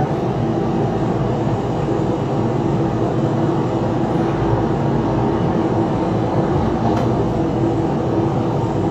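A steady low rumble of noise with a faint hum, unchanging throughout.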